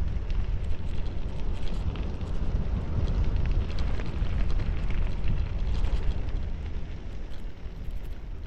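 Wind buffeting the microphone on a fast bicycle descent, a heavy low rumble, with the tyres crackling over a gravel road.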